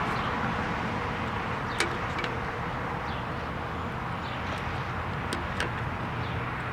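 Steady rumble of road traffic and wind, with a few light clicks about two seconds in and again near five and a half seconds.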